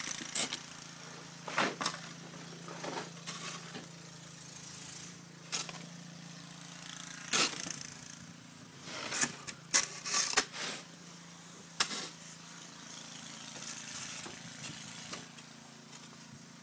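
Snow shovels scraping through snow in irregular strokes a second or a few seconds apart, busiest about ten seconds in, over a steady low hum.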